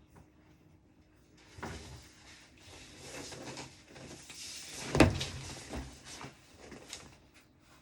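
Rustling and handling noises, with one sharp knock about five seconds in, like an object set down or a door or drawer bumped.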